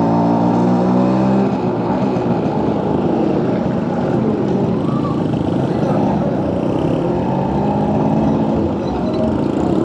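Suzuki AX100 motorcycle's small two-stroke single-cylinder engine running under way, its note rising and falling as it revs.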